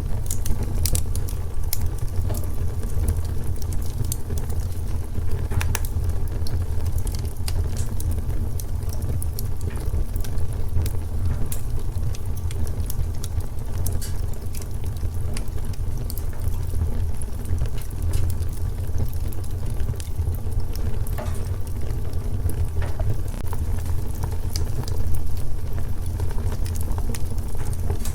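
Wood fire burning in a fireplace, crackling with frequent small pops and snaps over a steady low rumble.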